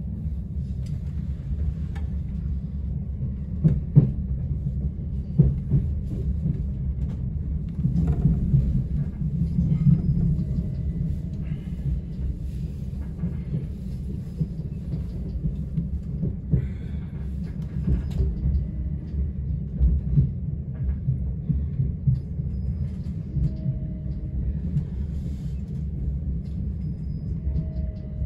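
Southern Class 377 electric multiple unit running between stations, heard from inside the carriage: a steady low rumble of wheels on track, with occasional knocks and clicks.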